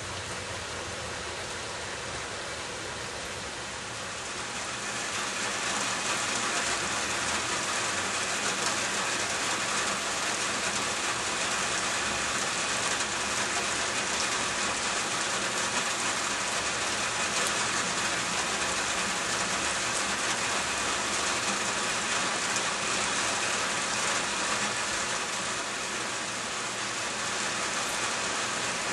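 Steady rain falling, growing heavier about five seconds in and then holding even.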